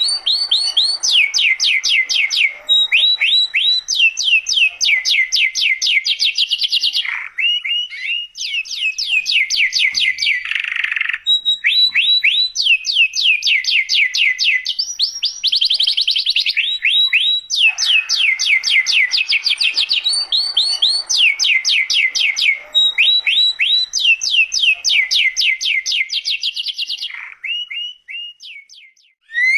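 Domestic canary singing a long, loud song of rapid trills, each phrase a fast run of repeated sweeping notes, with a brief pause near the end.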